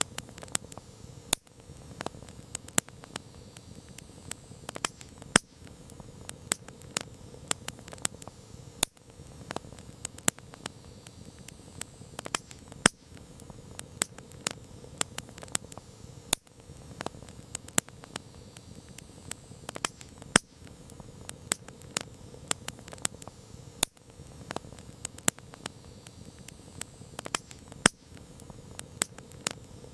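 Wood campfire crackling: frequent sharp pops and snaps of varying loudness over a steady low rush of the flames.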